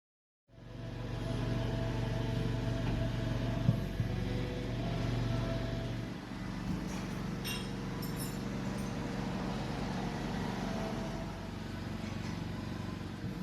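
A car driving: steady engine and road drone that starts about half a second in, dipping slightly about halfway through, with a few faint clicks.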